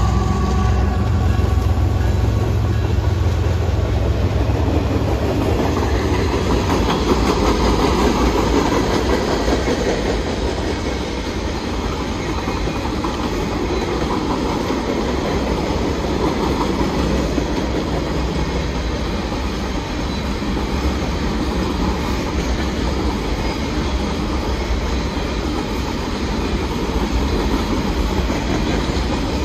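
A train rolling past close by, its cars' wheels clattering steadily over the rails. A deeper rumble in the first few seconds eases off into a continuous rolling clatter.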